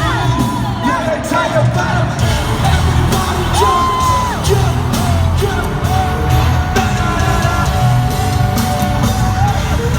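Live worship band playing loud, with drums, heavy bass and a singer; the singer holds one long note through the second half.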